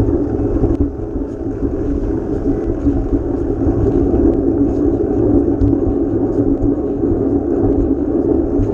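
Steady wind buffeting the microphone and road rumble while riding a bike, with faint scattered ticks and rattles.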